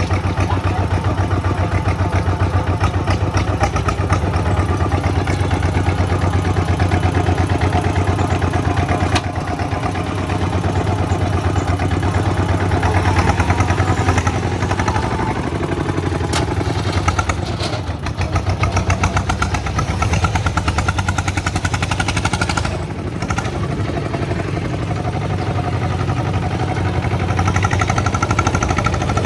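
Kubota single-cylinder diesel engine running steadily with a rapid, even firing beat, dipping briefly in level a few times.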